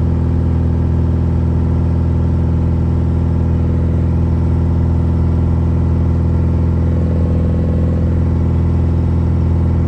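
BMW E36's engine and exhaust droning loudly at a steady, unchanging pitch while the car cruises at constant speed.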